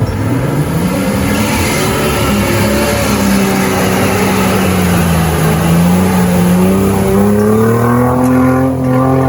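Toyota Land Cruiser engine revving hard under load as it crawls through an off-road obstacle. The pitch jumps up at the start, sags about halfway through and climbs again near the end.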